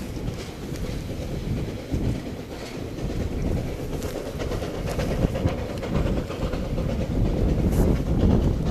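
Narrow-gauge steam-hauled coal train rolling along the track: a low rumble with a running clatter of wheels on rail joints, growing steadily louder as it approaches.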